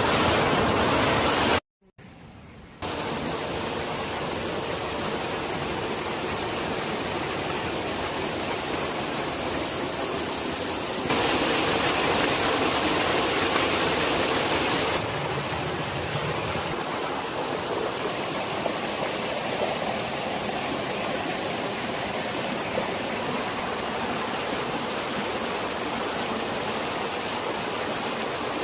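Rushing water running steadily, an even rush with no tone in it, cut off briefly about two seconds in and louder for a few seconds in the middle.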